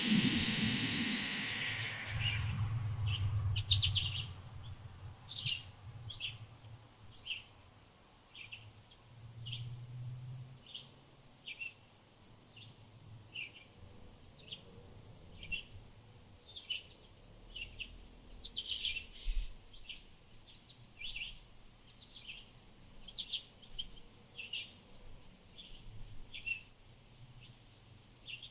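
Small garden birds chirping in short, scattered call notes, over a steady, very fast high-pitched trill. A louder sound fades out over the first two seconds.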